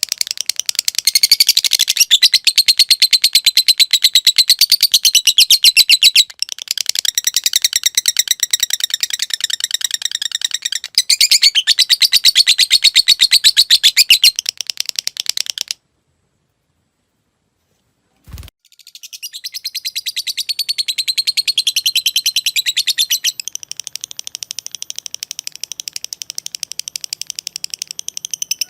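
Lovebird giving its long 'ngekek' chatter: a very rapid, machine-gun run of high ticking notes in long unbroken phrases. It stops for about two and a half seconds past the middle, then a single click, and the chatter starts again.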